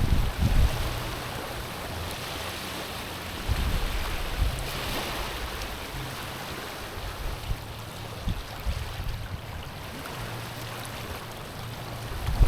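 Small sea waves washing over a stony shore, a steady hiss of water over pebbles that swells with a louder wash about four seconds in. Low gusty rumbles of wind on the microphone come and go underneath.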